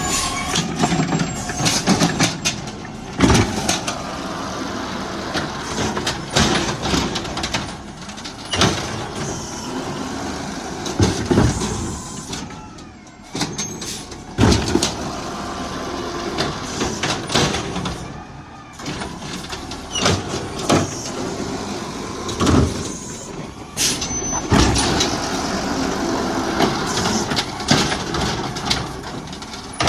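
Garbage truck at work: its engine runs steadily under many sharp clanks and knocks, with a few brief lulls.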